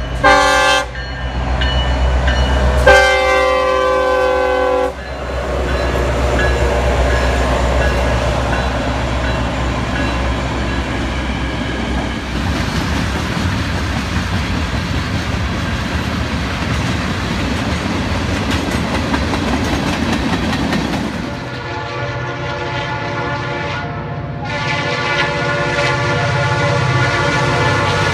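Diesel freight locomotive horn sounding a short blast and then a longer one of about two seconds, followed by a long freight train of tank cars rolling past with steady wheel and rail noise. Near the end, other diesel locomotives approach, their engines humming and their horn sounding continuously.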